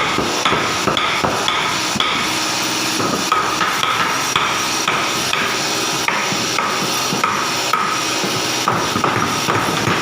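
Swiftlets chirping and clicking without a break, a short twittering call repeating about every half second to a second over a dense patter of sharp clicks.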